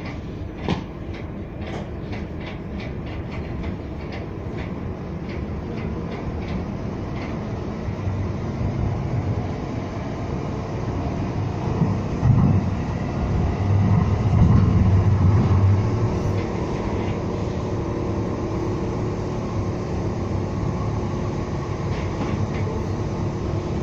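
Siemens U2 light-rail car running on the track: wheels click rapidly over rail joints for the first several seconds, then a steady running rumble builds, loudest around the middle, and settles.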